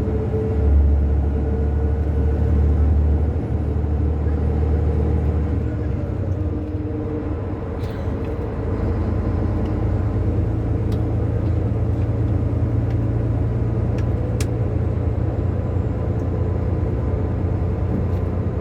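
Mercedes-Benz Travego coach's diesel engine pulling under acceleration, with a faint high turbo whistle over the deep engine note. The engine note changes about three and six seconds in, then holds steady, with a few sharp clicks in the second half.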